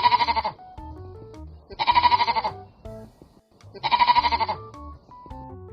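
Sheep bleating three times, about two seconds apart, each bleat quavering and about half a second long, over soft background music.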